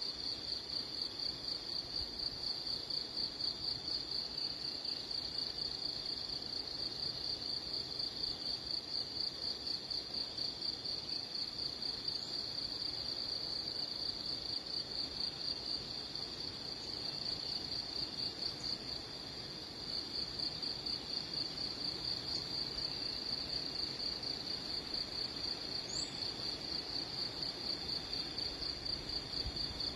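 Steady, high-pitched insect trill, a rapid even pulsing held on one pitch, like a cricket chirping continuously; it falters briefly about two-thirds of the way through.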